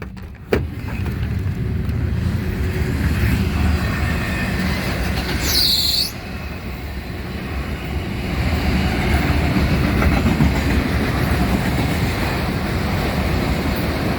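Florida East Coast Railway freight train's cars rolling past in a steady low rumble, with a sharp click just after the start and a short high squeal falling in pitch about six seconds in.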